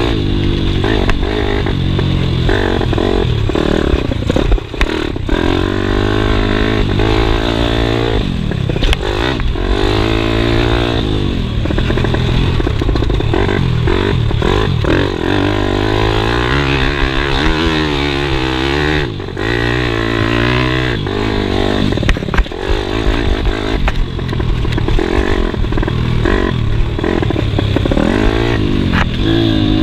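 Pit bike engine revving and easing off again and again while being ridden, its pitch rising and falling, with a rattling clatter. It dips briefly in loudness about five seconds in and again past the halfway point.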